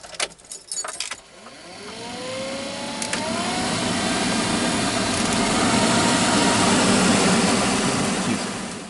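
GAZelle heater blower motor with its impeller fitted, bench-tested after a commutator clean: a few clicks as power is connected, then it spins up with a rising whine into a loud, steady rush of air, and it winds down near the end. The motor's shaft has play.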